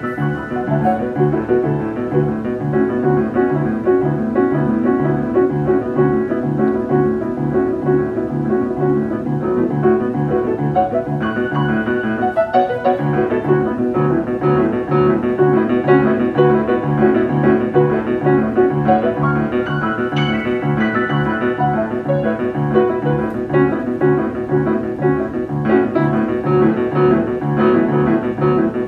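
Solo piano improvisation in a jazz pianist's hands: chords and melody over a low bass note repeated at a steady pulse, about two a second.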